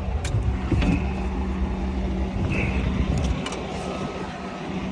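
Steady low hum of an engine running, with a few light clicks and knocks of plastic parts being handled in the cab. The hum eases a little about three seconds in.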